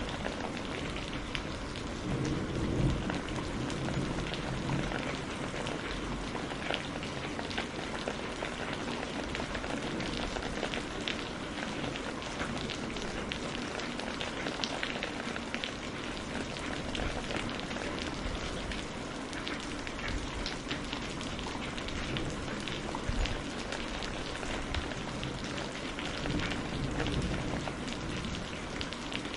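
Steady rain with individual drops ticking, and a soft low rumble of distant thunder swelling about three seconds in and again near the end.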